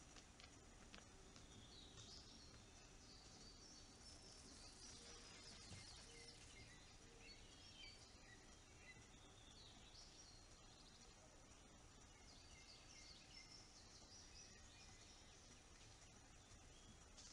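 Faint birdsong: several birds chirping and trilling, heard over a steady low background hiss.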